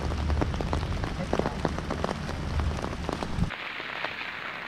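Rain falling, with many sharp raindrop taps and a low rumble under them; about three and a half seconds in the sound changes abruptly to a steadier rain hiss.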